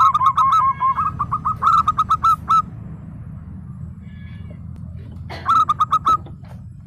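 Zebra dove (perkutut) cooing: a quick run of short staccato notes for about two and a half seconds, then a shorter burst of the same notes about five seconds in. A steady low hum runs underneath.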